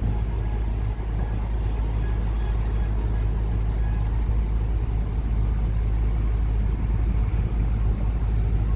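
Heavy diesel engine running steadily, a deep, even low hum.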